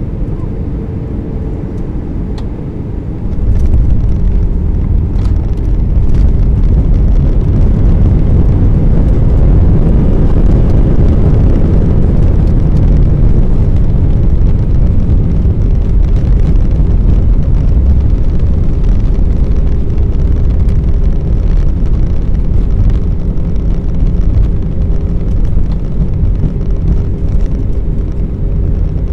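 Airbus A319 airliner cabin noise on landing: a steady rumble of engines and airflow with a hum, which steps up suddenly about three seconds in to a much louder, heavy low rumble that holds.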